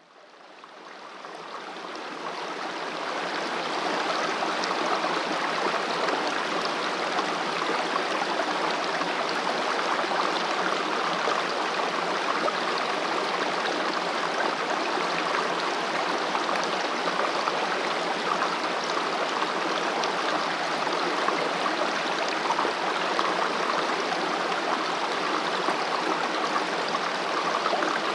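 Valley stream flowing with a steady, even rush of water that fades in over the first few seconds.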